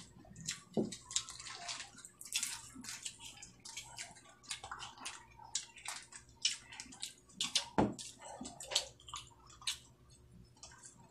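Close-up eating sounds: irregular wet chewing, lip-smacking and little clicks as people eat rice and dried fish with their hands, with a dull knock about eight seconds in.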